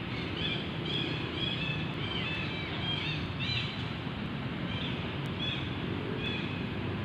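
Birds chirping in short, high, repeated calls over a steady outdoor hiss.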